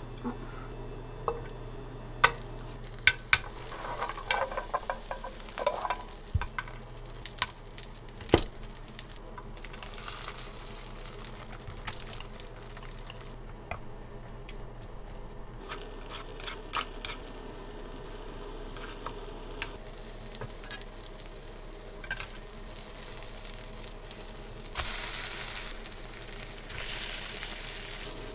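Food sizzling as it fries in a pan, with sharp clicks and knocks from a utensil in the first several seconds. The sizzle grows louder near the end.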